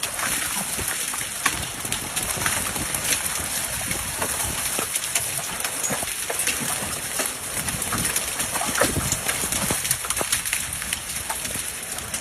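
Hailstones pelting down hard and steadily: a dense rush of noise dotted with many sharp, irregular individual hits on hard surfaces.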